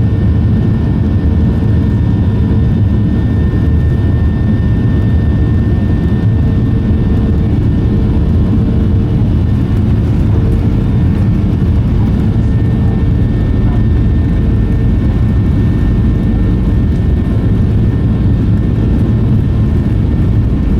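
Cabin roar of a Boeing 737-900 under high thrust at takeoff or in the initial climb, heard from inside the cabin: the CFM56 jet engines and airflow make a steady, loud low rumble with a faint whine above it.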